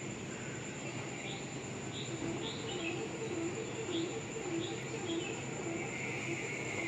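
Birds calling: a steady run of short, low hooting notes alternating between two pitches, with scattered short high chirps over them.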